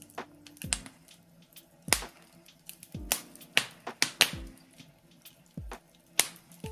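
Wood fire in a fireplace crackling, with irregular sharp pops from the burning birch logs, the loudest about two seconds in and around four seconds in.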